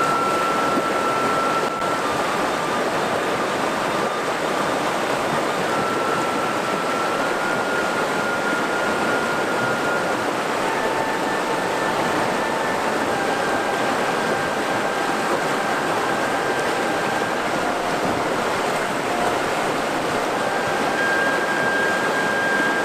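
A mountain river rushing steadily over rocks, a loud, even rush of water. Faint long-held tones sit over it, changing pitch every few seconds.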